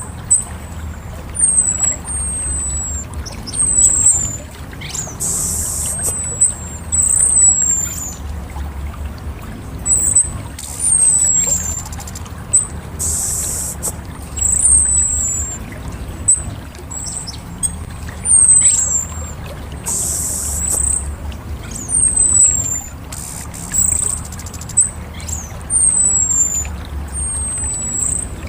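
Orange-headed thrush calling: short, high, falling whistled notes repeated about once a second, over a steady low hum.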